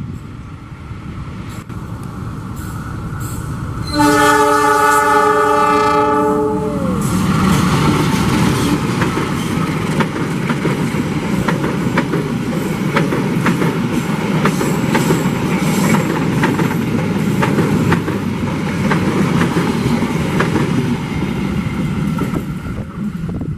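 KAI CC 206 diesel-electric locomotive hauling a passenger train past: its engine grows louder as it approaches, then it sounds a long horn blast of about three seconds starting about four seconds in, the pitch dropping at the end as the locomotive passes. The coaches then roll by with a clickety-clack of wheels over rail joints, fading near the end.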